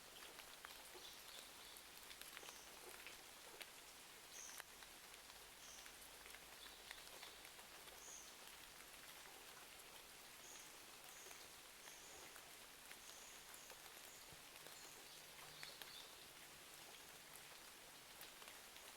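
Faint, steady rain with scattered sharp crackles from a wood fire, a study ambience of fireplace and rain. A few short, faint high chirps come and go through it.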